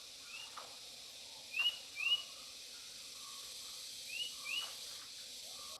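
A bird chirping: short upswept chirps, mostly in pairs, over a steady high background hiss.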